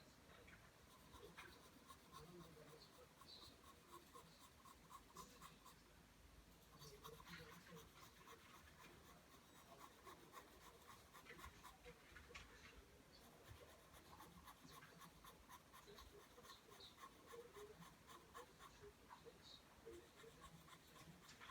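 Faint scratching of a pencil drawing lines on paper: a quick train of short strokes with brief pauses between runs.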